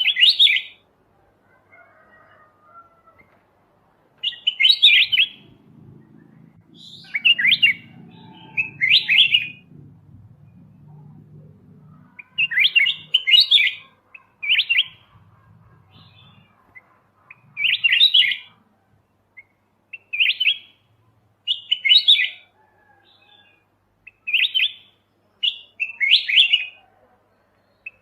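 Kutilang emas mata putih, a bulbul, singing short bright chirping phrases over and over, one every second or two. A faint low hum runs under the song for a while in the middle.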